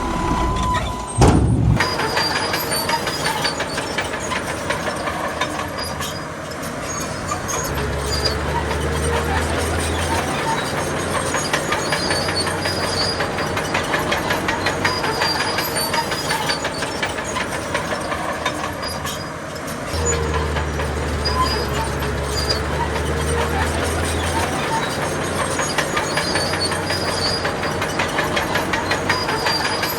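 Crawler bulldozer working: its diesel engine runs under load while the steel tracks clank rapidly. There is a loud knock about a second in, and the engine drone grows heavier twice.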